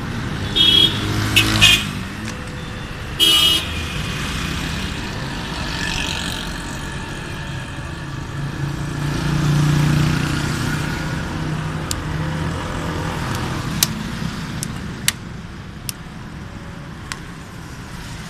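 A vehicle horn sounds three short toots over steady motor-vehicle engine noise. Engine noise swells about ten seconds in, and a few sharp clicks come near the end.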